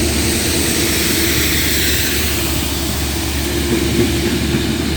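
Railhead treatment train passing, hauled by Class 66 diesel locomotives: a steady drone from an EMD two-stroke V12 diesel over continuous wheel-on-rail noise and hiss.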